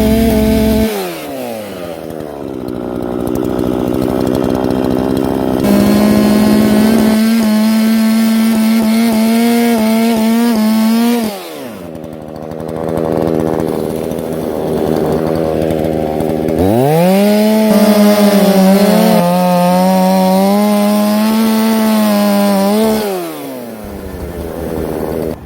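Chainsaw cutting firewood: the engine drops to idle about a second in, then twice revs up and holds at full speed for several seconds before falling back to idle.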